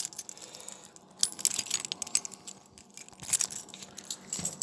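Light metallic jingling and clinking in short scattered bursts, loudest about a second in and again near three seconds.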